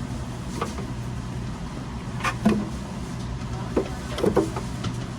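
Radish-slicing food machine's motor running with a steady low hum, with a few short clatters at irregular moments over it.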